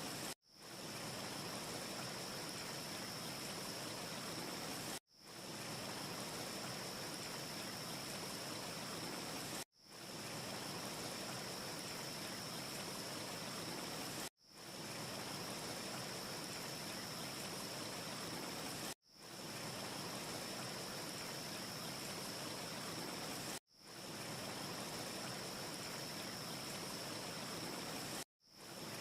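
Steady rushing wind ambience with a faint high whistling tone running through it. It cuts out suddenly about every four and a half seconds and fades back in over about half a second: a short loop repeating.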